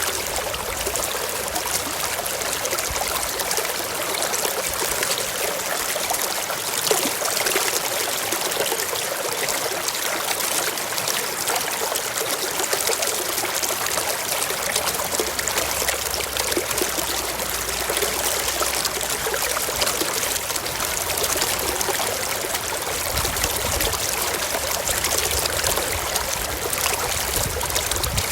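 Forest stream flowing over rocks: steady rushing and trickling water.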